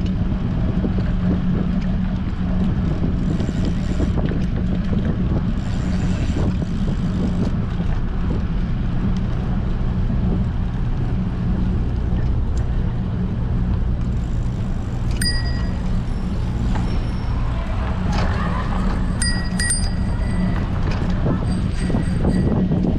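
Strong wind buffeting a bike-mounted action camera's microphone, a steady low rumble while cycling. From about fifteen seconds in, bicycle bells ring briefly several times.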